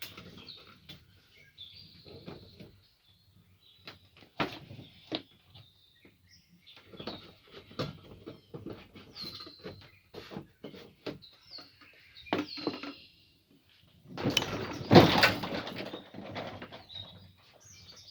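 Small songbirds chirping in short high notes, on and off. Scattered clicks and knocks of something being handled, with a louder rattling, rustling spell about fourteen seconds in.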